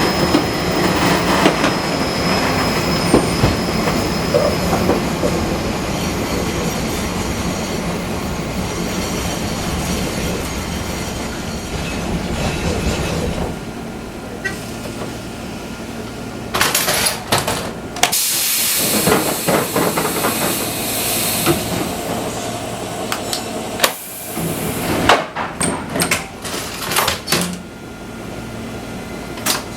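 Running noise of a Fukui Railway 200-series electric railcar heard from on board. The wheel and rail noise eases off about halfway through as the car slows. In the second half there are several short, sharp hisses of air.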